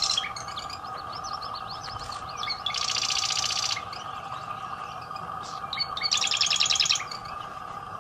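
A songbird singing in two bursts of very fast trilled notes, about a second long each, near the start and again about six seconds in, with scattered short chirps between them and a faint steady hum beneath.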